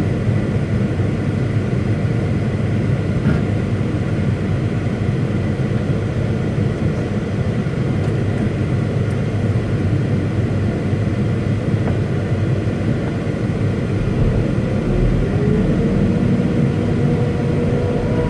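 Caterpillar 329E excavator's diesel engine running steadily. About three-quarters of the way through, a whine rises and holds as the lowest rumble grows louder.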